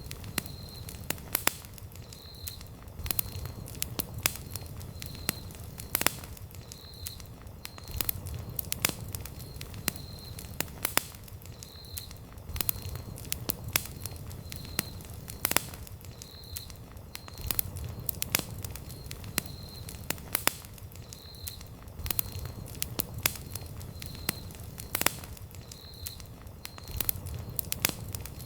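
Wood campfire burning, crackling with frequent irregular sharp pops and snaps over a low steady rush of flame that swells and eases every few seconds. A faint short high chirp repeats about once a second throughout.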